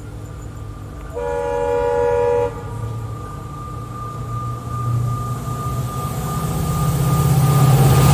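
Indian diesel locomotive horn sounding one blast of about a second and a half, over the low rumble of a diesel locomotive engine. A thin steady whine follows, and the rumble grows louder toward the end as the train approaches.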